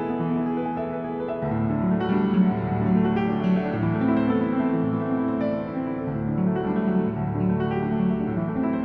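Background piano music: sustained notes changing roughly every second, with a fuller bass part coming in about a second and a half in.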